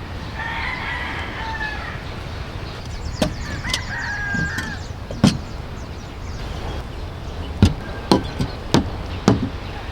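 A rooster crowing twice, followed by a series of sharp, irregular chopping knocks, over a steady low rumble of surf.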